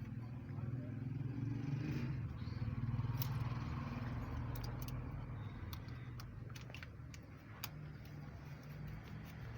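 Steady low mechanical hum running throughout, louder in the first half, with scattered light metallic clicks and taps from hand tools working the valve tappets and feeler gauge.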